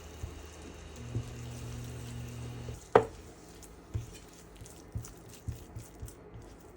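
Kitchen cooking sounds: a low electric hum for under two seconds, then one sharp knock about three seconds in, followed by several lighter knocks.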